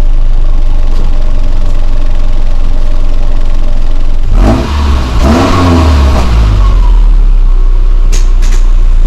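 Subaru Forester XT's turbocharged flat-four engine heard through its Ultrex sports mufflers, idling steadily. About four and a half seconds in it is revved once, rising and falling back to idle within about two seconds.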